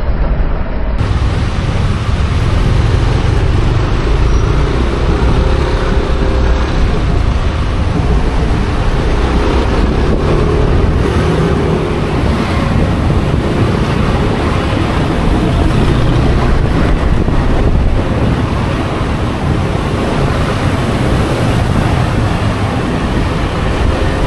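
Steady road traffic noise with a low rumble and wind buffeting the microphone, a vehicle engine running underneath with a faint wavering drone.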